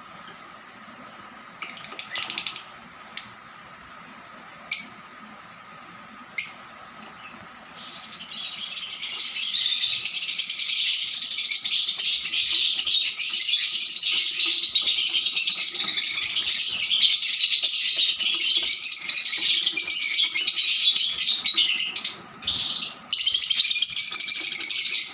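Lovebirds calling. At first there are a few short, separate chirps. From about a third of the way in comes a dense, continuous high-pitched chatter from many birds, which breaks off briefly near the end.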